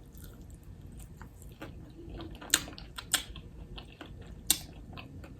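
Close-up eating of Korean fried chicken: crisp crunching bites and chewing, a run of small wet clicks with three sharp loud crunches about two and a half, three and four and a half seconds in.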